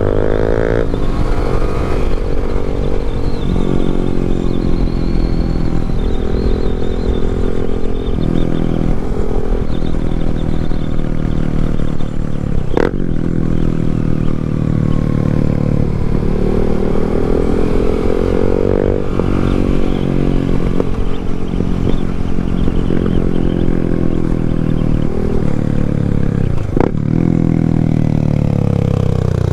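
Yamaha MT-07 parallel-twin motorcycle engine riding along, its pitch climbing under acceleration and dropping at each gear change, several times over. Two sharp clicks cut through, one about halfway and one near the end.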